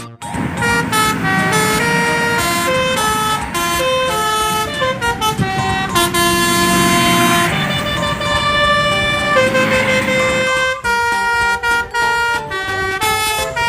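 Vehicle horns sounding one after another, their pitch stepping up and down over a low engine rumble.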